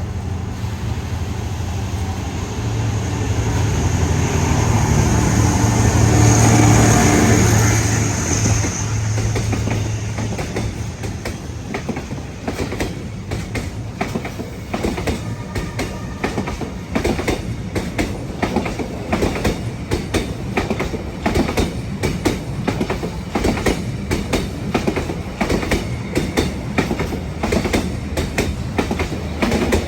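A diesel-hauled train passing: the locomotive's engine drone swells to a peak about seven seconds in, then fades. The wagons follow, their wheels clacking over the rail joints in a steady run of clicks.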